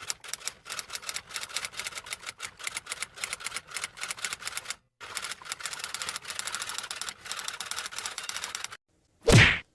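Rapid, irregular typing clicks, about as fast as a fast typist, with a brief pause around the middle. Near the end comes one short, loud burst of noise, the loudest thing here.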